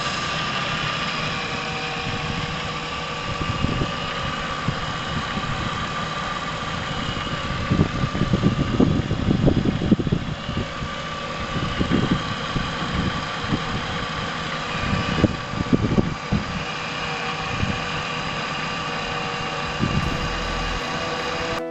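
Chevrolet Epica's engine idling steadily, freshly flushed and refilled with new oil, being checked for the top-end noise it had. Irregular low thumps come through in the middle and again near the end.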